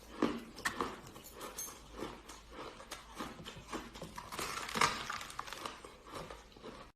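Ice being bitten and chewed close to the microphone: an uneven run of crisp cracks and crackles, with the loudest crunches about a third of a second in and again near five seconds.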